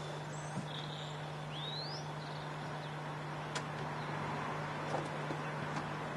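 A few short bird chirps, one a quick rising whistle about a second and a half in, over a steady hiss and a low hum.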